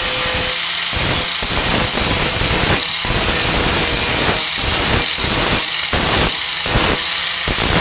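Warrior 4-1/2 in. angle grinder with a Type 27 grinding wheel grinding down a flux-core weld on a steel tailgate patch: a high whine over a harsh grating hiss. The grinding drops off briefly again and again as the wheel is lifted and set back on the metal.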